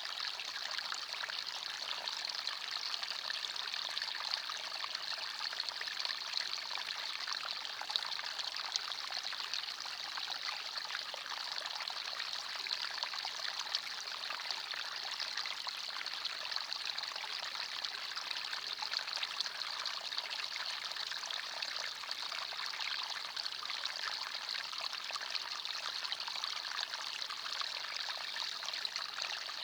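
A small forest stream running and trickling steadily, water splashing over stones in an even bright rush with fine flickering detail and no breaks.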